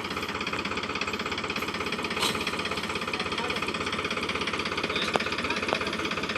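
Diesel tractor engine running with a steady, rapid, even chug.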